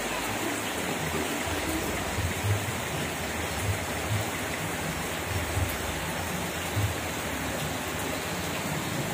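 Steady rain falling, an even hiss of water throughout, with a few faint low knocks.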